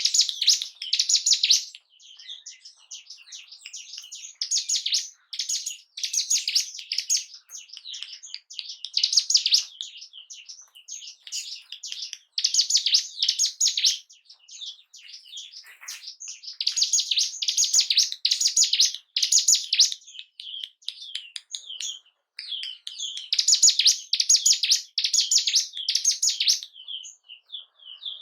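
Ciblek gunung, a mountain prinia, singing: fast, high, chattering phrases of rapid chirps, repeated in bursts every few seconds with short pauses between.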